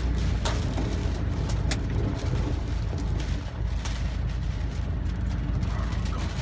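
Typhoon-force wind gusting, a deep steady rumble with wind buffeting, broken by a few sharp clicks or knocks.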